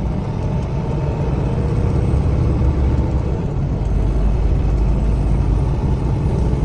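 Semi-truck driving at highway speed, heard from inside the cab: a steady, deep engine and road rumble.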